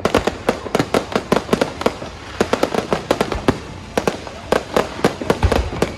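Fireworks going off in a dense, irregular barrage: many sharp bangs and cracks a second, with no let-up.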